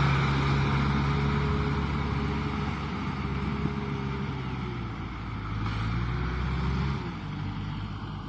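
Kubota M6040SU tractor's diesel engine running. Its speed holds steady at first, then drops and picks up again a couple of times near the end.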